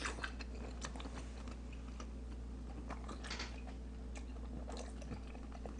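A person chewing and eating quietly, with a few faint short clicks that fit chopsticks against the food containers, over a low steady hum.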